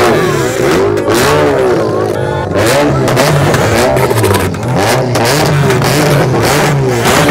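Several car engines revving at once, their pitches rising and falling and overlapping.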